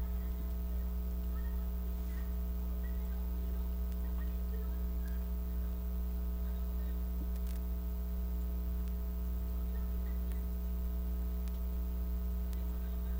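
Steady electrical mains hum with a few faint, short ticks in the second half.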